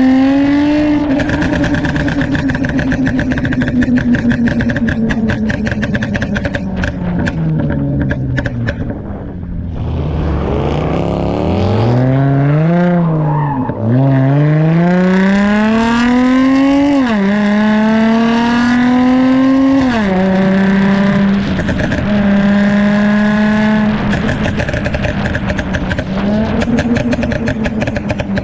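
Dodge Charger SXT's 3.6-litre V6 with a pop-and-crackle tune, crackling in quick pops as the revs fall off, then accelerating hard through three gear changes, each a rising note that drops suddenly at the shift, before settling to a steady cruise with more crackles near the end.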